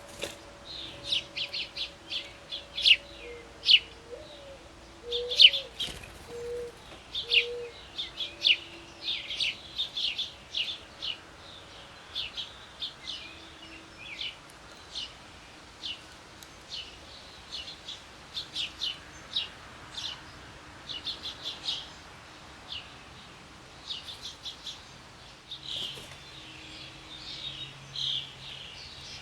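Birds chirping: a busy run of short, sharp, high chirps, thickest in the first ten seconds and thinning out after that, with a few faint low notes about four to eight seconds in.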